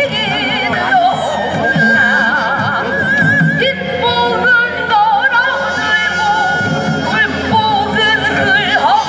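Korean traditional folk singing with a wide, wavering vibrato over instrumental accompaniment, performed live.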